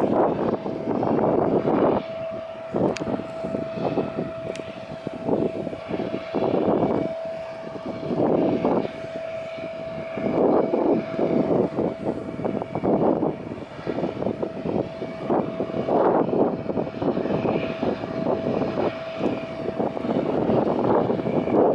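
Jet airliner engines whining steadily, buried under heavy gusts of wind buffeting the microphone, which come and go every second or two and are the loudest sound.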